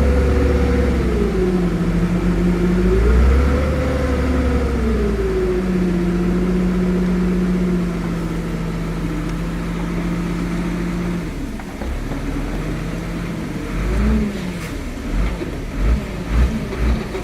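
Diesel engine of heavy earthmoving machinery revving up and down, then running at a steady speed. It eases off about eleven seconds in, and several short low thumps follow near the end.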